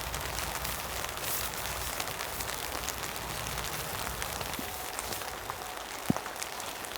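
Steady rain falling, an even hiss dotted with many small drop ticks, with one sharp tap about six seconds in.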